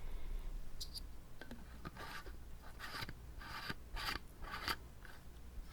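Close-miked mouth sounds: a few sharp wet clicks followed by a run of short breathy hisses.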